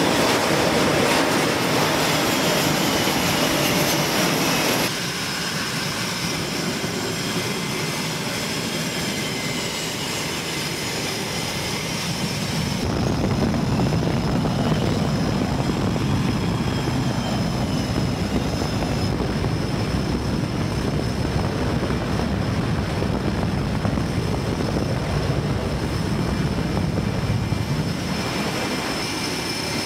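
F/A-18 fighter jet engines running, a steady rush with a high turbine whine that slides up and down. The sound changes abruptly three or four times, as from cuts between shots.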